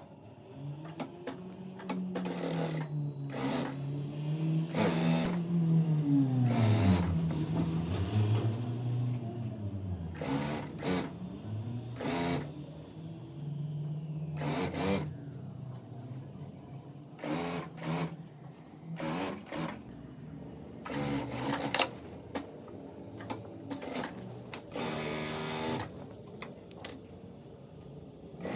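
Electric sewing machine stitching in runs, its motor speeding up and slowing so the hum rises and falls in pitch. Short stops and clicks come between the runs.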